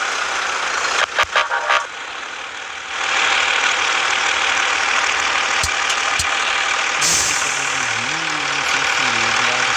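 Scania S 450 truck running, its engine and road noise growing louder about three seconds in, with a low wavering hum in the last few seconds.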